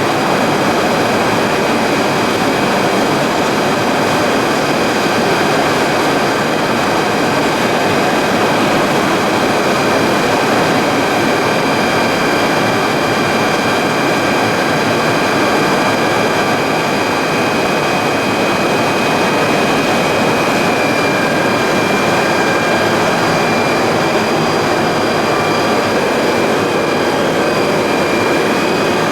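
Machinery of a PE and calcium carbonate pelletizing line running steadily: a loud, even industrial noise with several high, steady whining tones over it.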